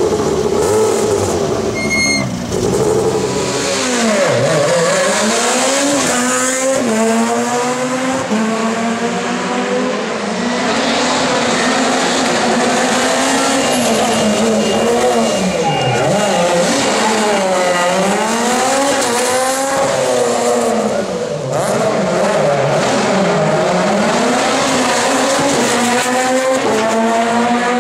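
Peugeot 207 S2000 rally car's two-litre four-cylinder engine, loud, revving hard and shifting gear over and over, its pitch climbing and dropping many times. Backfires crack on the gear changes.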